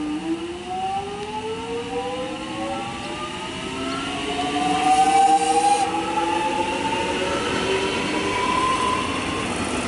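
X'Trapolis 100 electric train pulling away from the platform, its traction motors whining in several tones that rise steadily in pitch as it accelerates, with a short hiss about halfway through.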